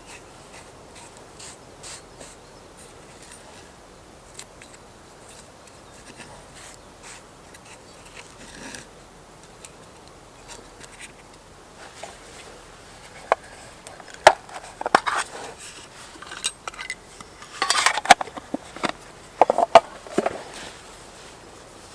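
Objects being handled at close range: faint scattered ticks at first, then a busier run of sharp clicks, knocks and scrapes in the second half.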